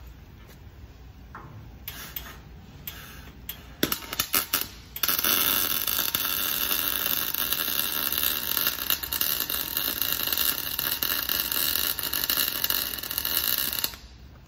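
Wire-feed welder arc: a few short sputtering starts about four seconds in, then a steady crackling arc for about nine seconds as a weld bead is run, cutting off suddenly near the end.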